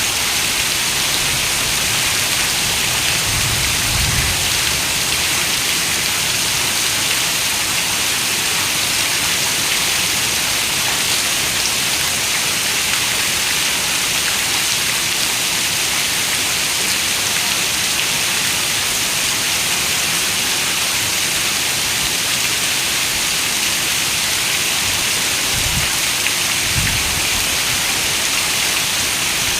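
Heavy rain falling steadily on a window, a dense even hiss, with brief low rumbles about four seconds in and again near the end.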